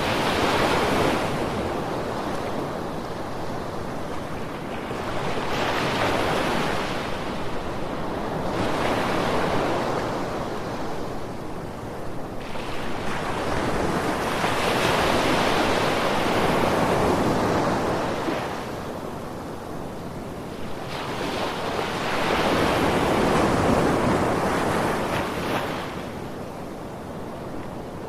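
Sea waves washing onto a sandy shore, the surf swelling and fading in slow surges a few seconds apart.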